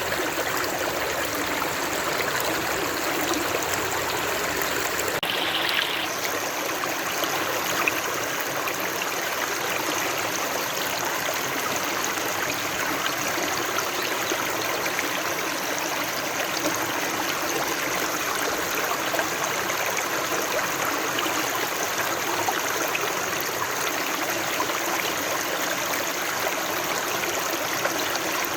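Stream water running in a steady, unbroken flow, with a slight shift in its hiss about five seconds in.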